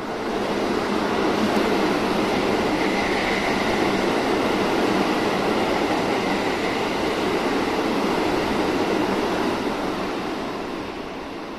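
A Hokuso 9800 series electric commuter train passing through a station without stopping: a steady loud rumble of wheels on rail that swells in as it arrives and fades near the end as the train pulls away.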